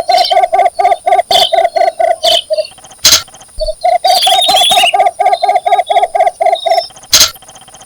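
Cinnamon bittern giving its mate-seeking call: a fast run of short, low notes, about six a second, in two series with a pause of about a second between them. Another bird twitters briefly about four seconds in, and two sharp clicks sound, one near the middle and one near the end.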